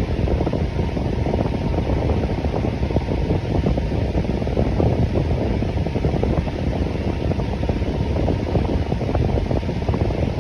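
Electric fan running steadily: an even, unbroken rush of air, heaviest in the low range, with a faint steady tone above it.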